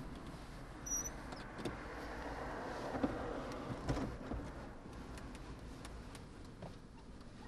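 Road traffic ambience with a car passing by and a few light clicks and knocks.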